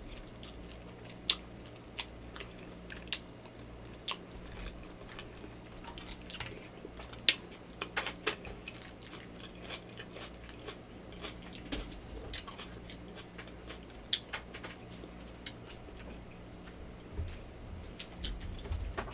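Close-miked chewing and biting of yakamein noodle soup, with many irregular wet mouth clicks.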